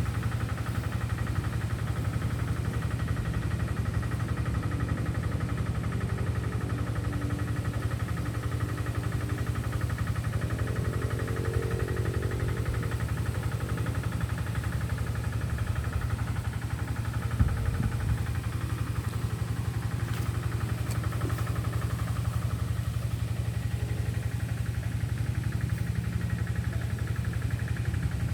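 A steady low hum of an engine running evenly, with a single short thump about 17 seconds in.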